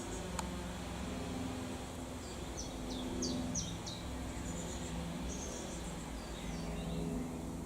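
A small bird chirps a quick run of four or five short, high, falling notes about halfway through, with fainter high calls afterwards, over a steady low hum of outdoor background noise. A single sharp tick sounds near the start.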